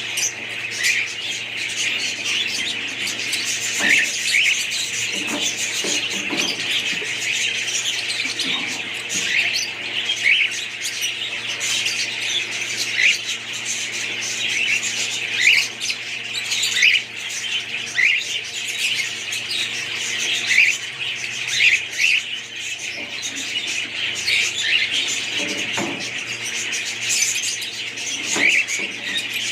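A flock of budgerigars chattering and warbling continuously, with sharper chirps standing out above the chatter every second or two.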